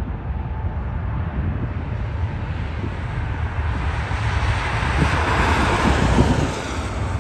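Jet airliner passing, its engine noise swelling to a peak about five to six seconds in and then easing, over a steady rumble of wind buffeting the microphone.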